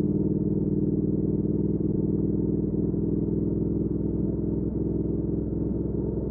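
2019 Triumph Speed Twin 1200's parallel-twin engine, fitted with a Weslake Shorty Pro exhaust, running at a steady cruise with an even low drone that eases slightly near the end.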